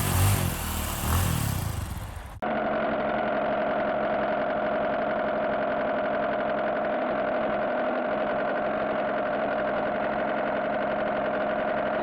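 Car engine running steadily at idle, with no revving. It cuts in abruptly about two and a half seconds in, as a recording of narrower sound quality.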